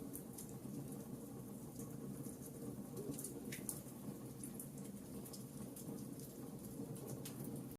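Campfire crackling: burning wood giving off frequent small, sharp pops, one a little stronger about three and a half seconds in, over a steady low rush of the flames.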